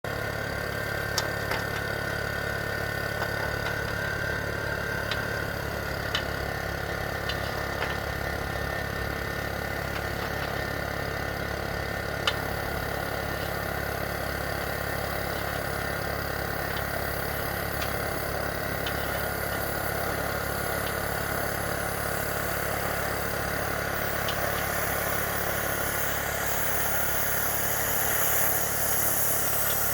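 A motor-driven machine running steadily, with scattered sharp clicks and ticks over it.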